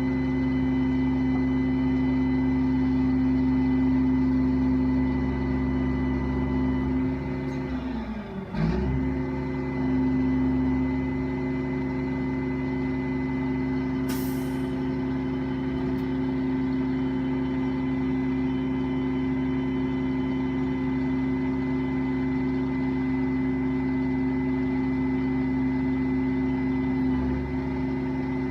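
Garbage truck's engine running steadily at a loud, even hum. The pitch sags and then recovers about eight seconds in. A short burst of air hiss, like an air brake release, comes about fourteen seconds in.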